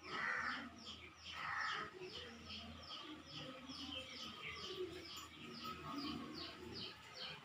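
A small bird chirping steadily, a short high falling chirp repeated about three times a second, with two brief louder noises in the first two seconds.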